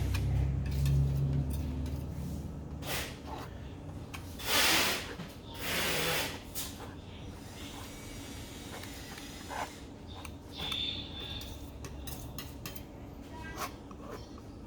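A few scraping, rubbing strokes of thick paint being mixed and spread, the two loudest about four and six seconds in, with quieter stretches between.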